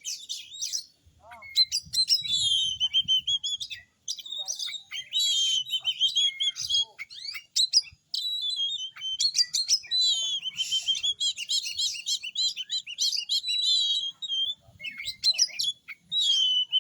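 Oriental magpie-robin (kacer) singing: a long run of varied, loud whistled phrases and rapid chattering trills, broken by a few short pauses.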